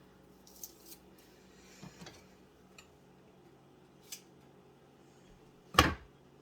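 Metal garlic press being worked: a few soft clicks and scrapes, then one loud sharp clack near the end.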